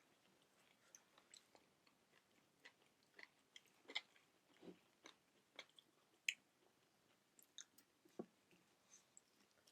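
Close-miked chewing, quiet, with scattered short wet smacks and clicks of mouth and food at irregular intervals.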